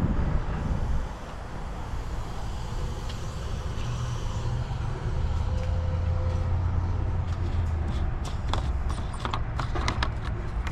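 Steady low vehicle engine rumble that swells about halfway through, with a run of sharp clicks and knocks near the end.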